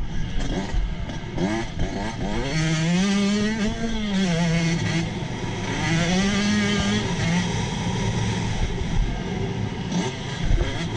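Motocross bike engine heard from on board, revving up and down as the rider works the throttle around the track. Its pitch climbs and drops several times, with the clearest long rise and fall about a third of the way in.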